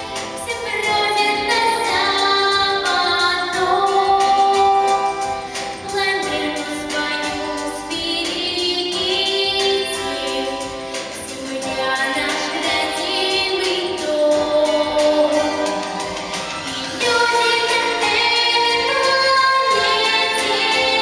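A young girl singing a song solo with held, wavering notes over musical accompaniment.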